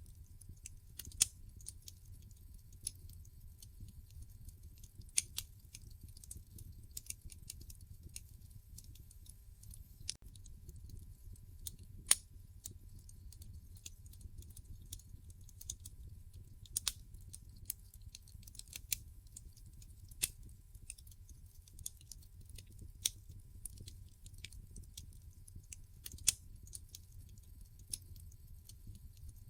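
Wood fire burning in a fireplace: irregular sharp crackles and pops from the burning logs over a low, steady rumble of the flames. The loudest pops come about a second in and about twelve seconds in.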